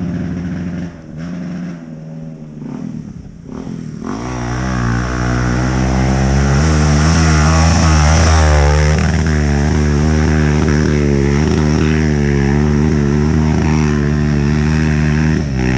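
Dirt bike engine running at low, uneven revs, then revved hard about four seconds in and held high with a wavering pitch for most of the rest, easing off near the end.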